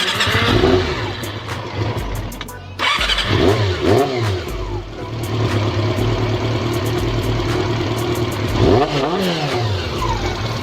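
Honda CB400 Super Four inline-four engine running at idle and being revved up and back down several times: once about half a second in, twice close together a few seconds in, and once near the end. It runs with an exhaust leak at the headers and does not idle evenly, which the owner suspects is an ignition fault (coil, plug lead or plug cap).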